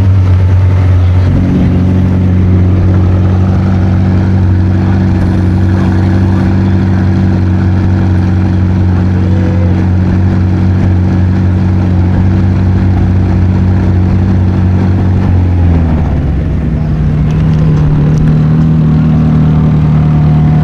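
Car engine running steadily and loud at a fast idle, its pitch stepping up once about a second in; near the end the revs rise and hold at a higher, steady speed.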